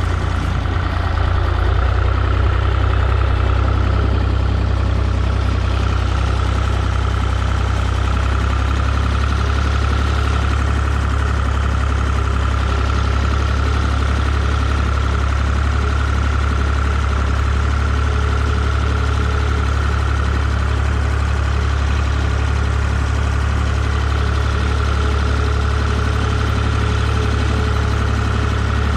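Tractor engine running steadily, with a low drone and a steady high whine above it.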